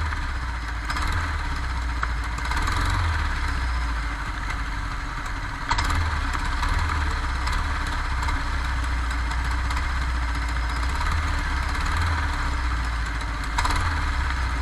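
Go-kart engine running steadily, heard from on board, with one sharp knock about six seconds in.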